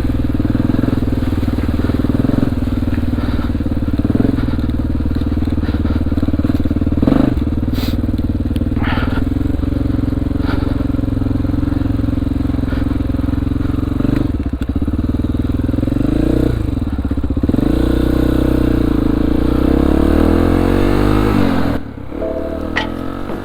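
2002 Honda XR400R's single-cylinder four-stroke engine running steadily while ridden, with a few sharp knocks along the way. Its pitch shifts up and down in the last few seconds before the sound cuts off suddenly near the end.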